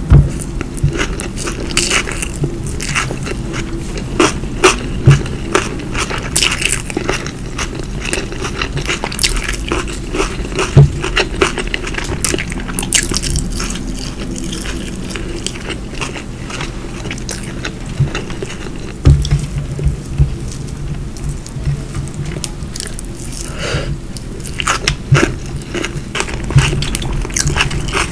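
Close-miked eating: chewing and biting with many short wet clicks and smacks of the mouth, over a steady low hum.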